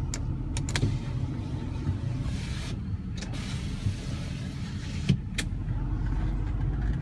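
Power rear sliding window of a 2012 Ford F-350 being run on its electric motor, with a few sharp clicks. The truck's 6.7-litre turbo diesel idles steadily underneath.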